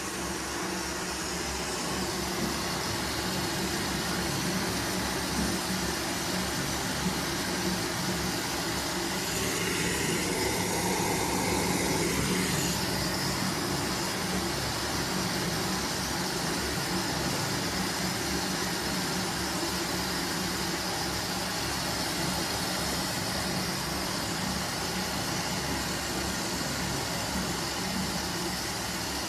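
Washing machine running a cotton wash cycle: a steady mechanical noise with a low hum, which shifts briefly about ten seconds in before settling back.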